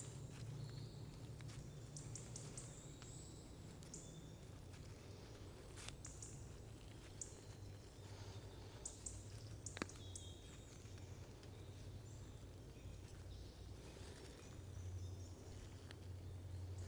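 Faint forest ambience: scattered short, high bird chirps over a low steady rumble, with one sharp click about ten seconds in.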